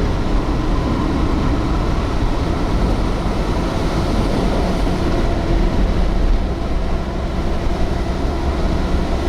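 Steady low rumble heard from inside a moving vehicle: road and engine noise mixed with strong wind buffeting the car.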